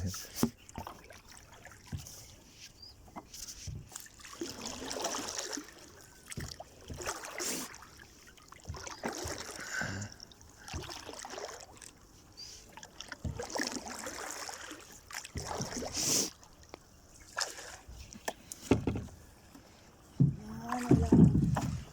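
Water splashing and sloshing around a small boat moving through marsh water, in repeated swells every couple of seconds.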